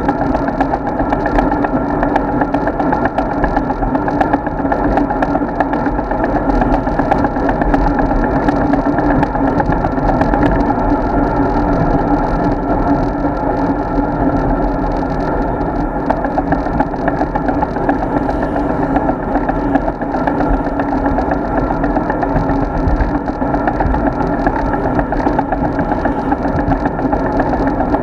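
Steady rumble of wind and tyre noise on an action camera's microphone while riding a road bike.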